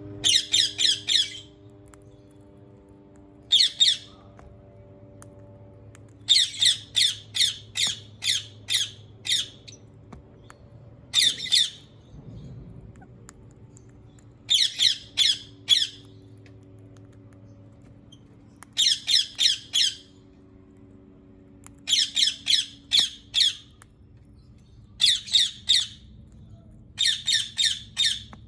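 Ringneck parakeet screeching in short runs of rapid, harsh repeated calls, about four or five notes a second, a new run every few seconds.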